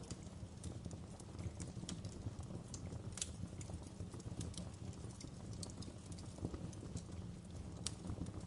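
Wood fire burning in a fireplace: a steady low rumble of the flames with irregular sharp crackles and pops from the logs, the loudest about three seconds in and near the end.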